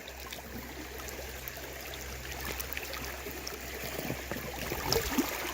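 Creek water running steadily, with a few light knocks near the end.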